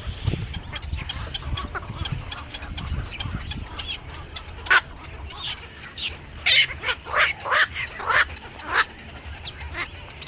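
Birds calling: one loud call about halfway through, then a quick run of about six loud calls near the end, over a steady low rumble.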